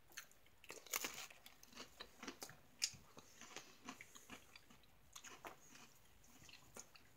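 A person chewing a crunchy MRE vegetable cracker with stew: faint, irregular crisp crunches, loudest about a second in and again near three seconds.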